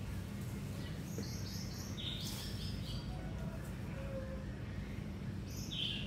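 Small songbirds chirping: quick runs of high notes about one to three seconds in and again near the end, over a steady low rumble.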